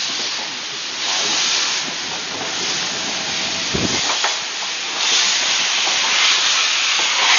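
Steam locomotive's cylinder drain cocks open, blowing off steam in a loud steady hiss that clears loose water from the cylinders. A brief low thud sounds about halfway through.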